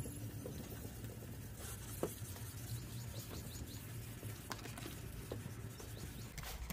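Faint scratchy rubbing of 2000-grit wet sandpaper on a sanding block worked back and forth across a plastic headlight lens, with a few light clicks.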